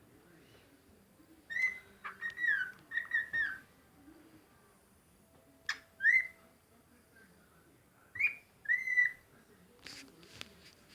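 A bird whistling short gliding chirps in three bursts, about one and a half, six and eight seconds in.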